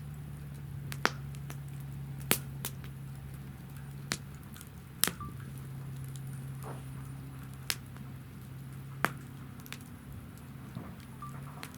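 Firewood burning in a fire stand, crackling with about seven sharp pops scattered through, over a steady low hum.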